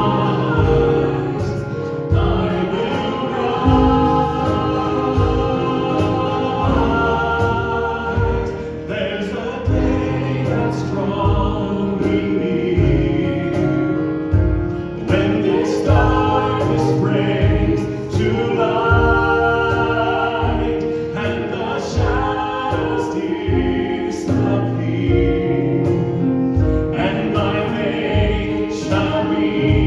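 Worship band and congregation singing a song together, with sustained chords and a steady drum beat.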